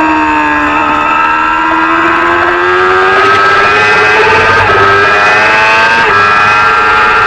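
Small-capacity racing motorcycle engine running at high revs, its pitch sagging slightly, then climbing slowly, with a brief dip about six seconds in.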